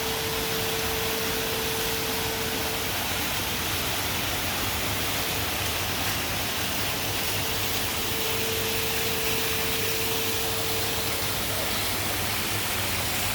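Steady, even rushing noise, like falling water. A faint steady tone sits under it for the first few seconds and again about two-thirds of the way through.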